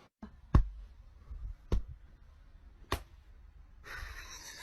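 Three sharp knocks, evenly spaced about a second apart, followed near the end by a steady hiss.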